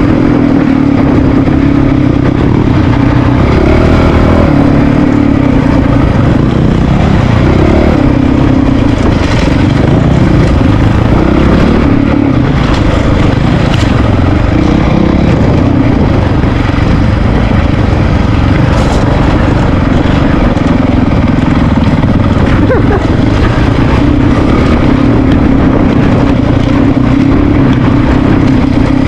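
Honda CRF450RL's single-cylinder engine running while riding off-road, loud and continuous, its note wavering a little with the throttle.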